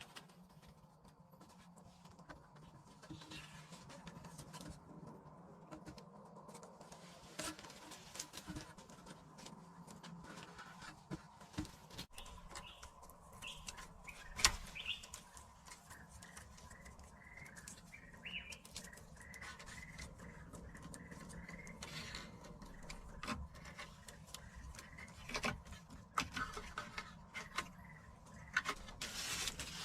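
Faint birds chirping in short calls, with scattered light clicks and knocks and one sharper knock about halfway through.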